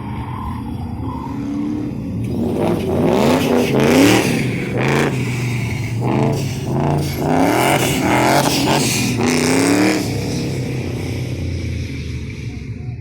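1991 Pontiac Firebird Trans Am WS6's V8 engine being driven hard, revving up in a series of rising bursts with brief drops between, then easing back to a lower, steadier run near the end.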